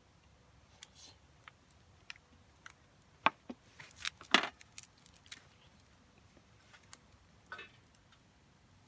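Wood fire crackling with irregular sharp pops, a burst of louder cracks a few seconds in.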